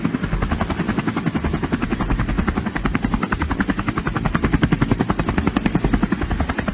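Helicopter rotor chopping steadily, a fast, even beat with a low hum underneath.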